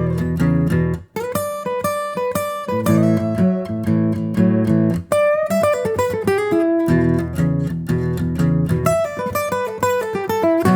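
Background music led by plucked acoustic guitar, with picked notes over a steady bass line.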